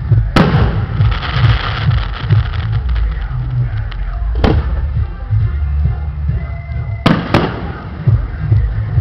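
Aerial firework shells bursting: a sharp bang about half a second in followed by a couple of seconds of crackling, another bang midway, and a quick double bang later on. Under them, loud music with a heavy bass beat.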